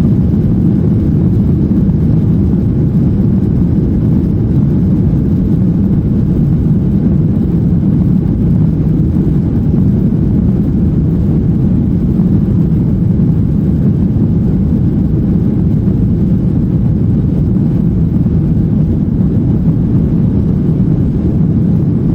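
Jet airliner cabin noise: a steady, loud, low rumble of engines and airflow heard from inside the passenger cabin, with no change in pitch or level.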